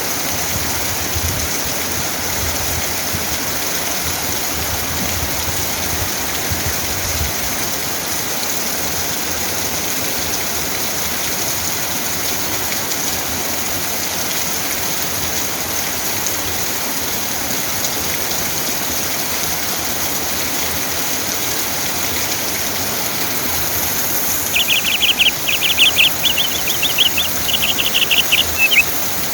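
Steady rain falling, an even hiss. About five seconds before the end, a rapid chirping call starts up over it: a fast series of short, high notes.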